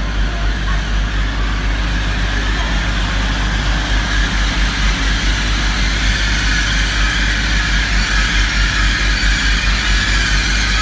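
Hull Trains Class 180 diesel multiple unit running past close by: its underfloor diesel engines and the wheels on the rails make a loud, steady noise.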